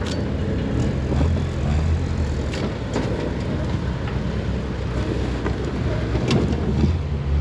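Off-road rock crawler's engine running steadily at low revs as it crawls over rocks, with a few sharp clicks and knocks scattered through.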